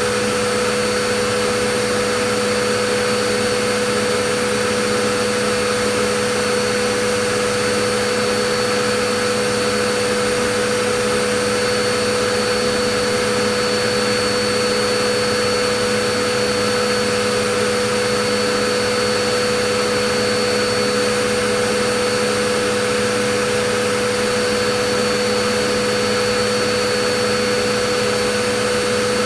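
Vacuum cleaner running continuously, a steady whooshing rush of air with a constant motor hum and whine, unchanging in level or pitch.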